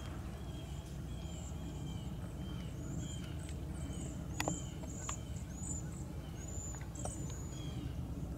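Birds chirping: a short call repeated about twice a second, joined in the middle by a second, higher-pitched series of chirps. A couple of faint clicks and a steady low wind rumble lie underneath.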